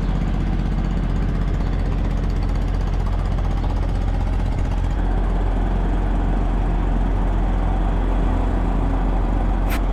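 A farm vehicle's engine running steadily at idle, a constant low hum. A single sharp click comes near the end.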